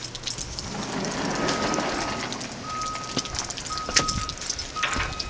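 A vehicle's reversing alarm beeps four times, about a second apart, over crunching steps in snow.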